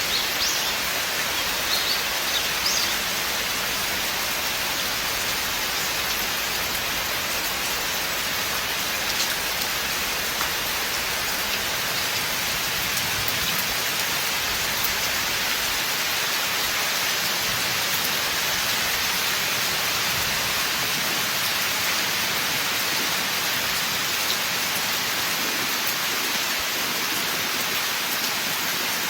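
Steady rain falling in a forest, an even hiss of many drops with a few louder single drops standing out in the first few seconds.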